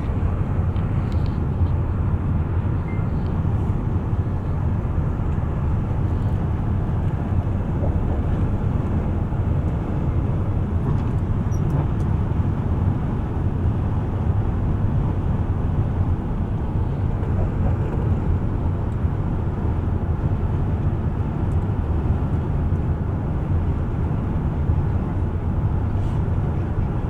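Steady low rumble of a bus on the move: engine and road noise held at an even level throughout.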